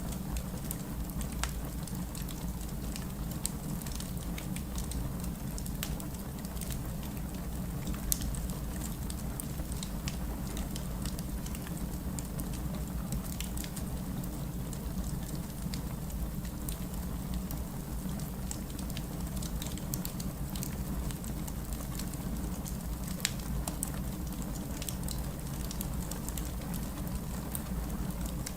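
Wood fire crackling with scattered sharp pops, over a steady low wash of rain.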